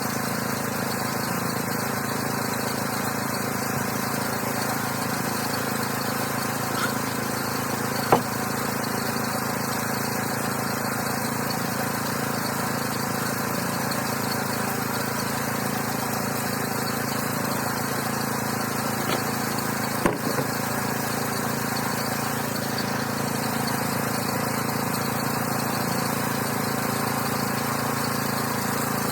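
Engine of a homemade sawmill running steadily at an even speed, with two brief sharp knocks, about eight and twenty seconds in.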